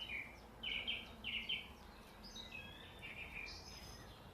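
A songbird singing: short clear notes repeated in quick pairs during the first second and a half, then a higher, more varied phrase, over a faint steady low rumble.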